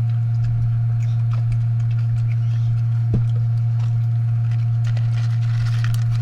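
A steady low hum, with faint clicks and taps of eating and a single knock about three seconds in.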